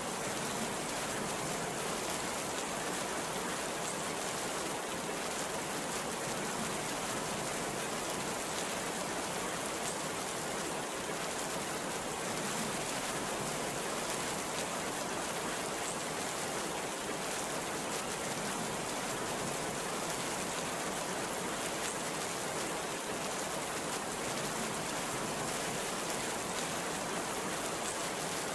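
Heavy rain falling steadily, a dense, even hiss of downpour with no thunder.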